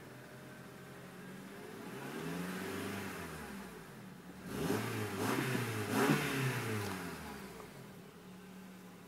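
2007 Honda Accord LX engine revved from idle: one slow rise and fall of the revs, then two quicker blips a second or so apart, settling back to a steady idle.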